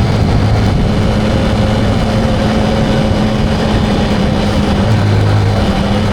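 Motorcycle engine running at a steady speed under wind and road noise while riding; the engine's low note eases for a few seconds and comes back strongly about five seconds in.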